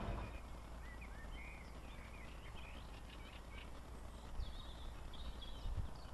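Small birds chirping and singing in short, repeated calls over a faint, steady low rumble.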